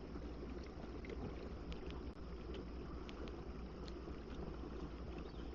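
Kayak underway under its bow-mounted electric trolling motor: a steady low hum with water washing along the hull, and a few faint ticks.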